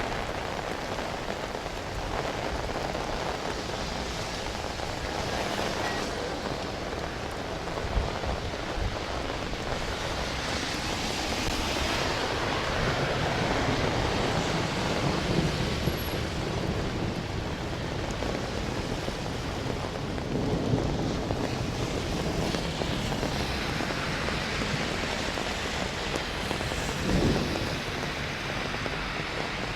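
Steady rain falling, with thunder rumbling; the sound swells louder in the middle.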